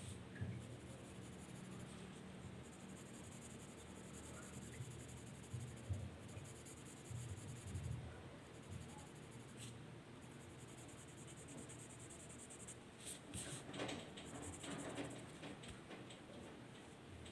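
Faint scratching of a drawing tool moving across paper in short strokes, busier for a couple of seconds near the end.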